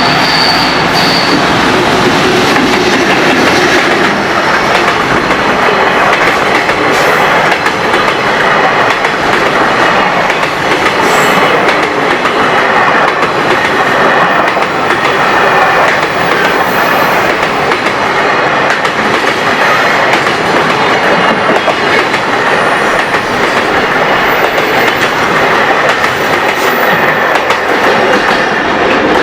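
A train passing close by, its wheels clattering over the rail joints.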